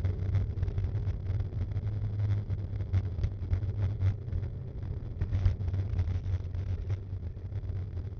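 Low rumble with dense, irregular rattling and knocking, as picked up by an action camera mounted on a mountain bike while riding.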